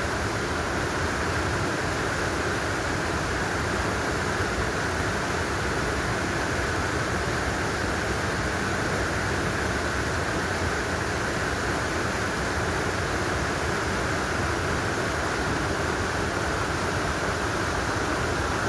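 Steady rushing of a mountain valley stream, an even hiss of flowing water that holds at one level without a break.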